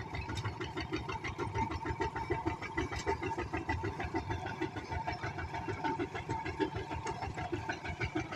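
Engine running steadily with a fast, even chugging rhythm.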